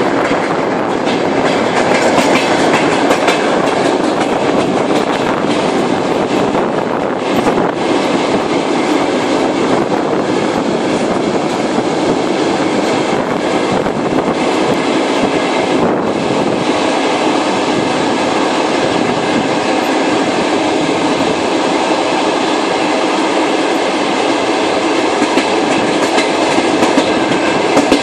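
A long-distance passenger train running at speed, heard from its carriage: a loud, steady rumble and rush of steel wheels on the rails, with a few faint clicks from rail joints.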